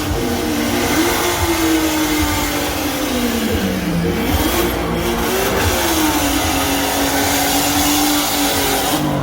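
Car engine running loud, its pitch wandering up and down as the revs change, with a dip in engine speed about four seconds in.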